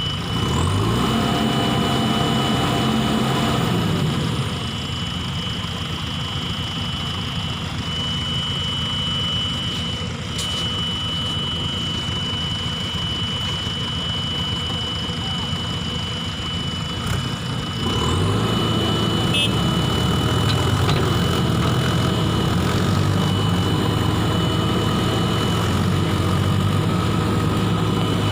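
Heavy vehicle engine revving up shortly after the start, holding for about three seconds and dropping back, then revving up again about two-thirds of the way through and staying up. A steady high whine runs throughout. This is machinery working to recover an overturned oil-palm fruit truck.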